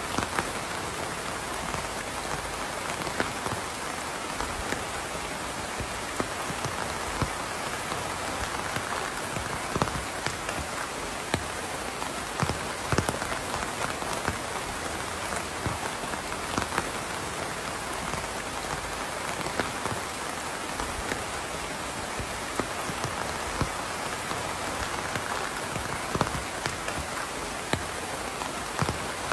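Steady rain falling on a surface, with many individual drops ticking sharply over the even hiss.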